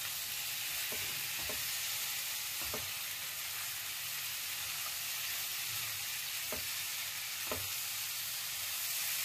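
Jackfruit pieces and masala sizzling in a nonstick pan as they are stirred and tossed with a spatula. Several short knocks of the spatula against the pan.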